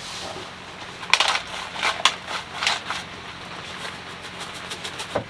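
Pumpkin seeds being seasoned for roasting: a run of crunchy, irregular clicks and rattles, loudest a second or two in, thinning to lighter ticks.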